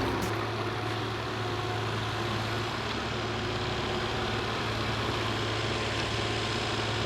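Heavy construction machine's diesel engine running steadily with a low, even hum.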